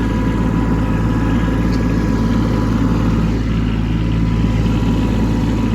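Kubota B2601 compact tractor's three-cylinder diesel engine running steadily at an even speed.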